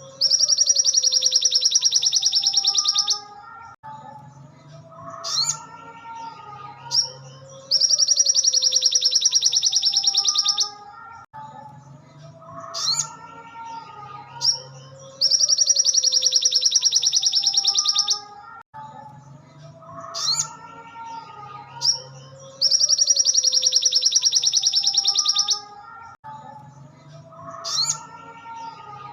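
Ruby-cheeked sunbird (sogon) song played as a looped training recording: a loud, rapid high trill lasting about three seconds, then quieter, lower warbling phrases. The same cycle repeats four times, about every seven and a half seconds.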